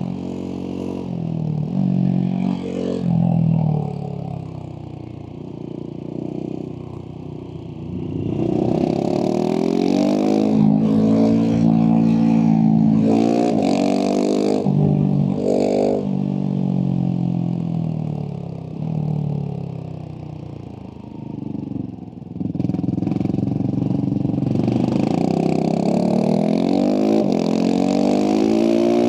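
Husqvarna 701 SM single-cylinder engine through a Leovince slip-on exhaust, accelerating hard and shifting up several times in quick succession, with spells of easing off the throttle in between.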